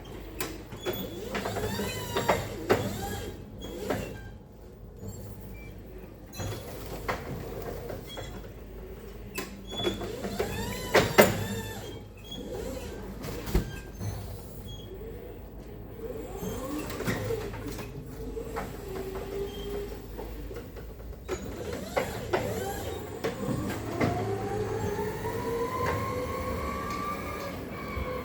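Boom truck unloading: scattered metal clanks and squeaks over a low steady hum, and a whine that rises in pitch over several seconds near the end.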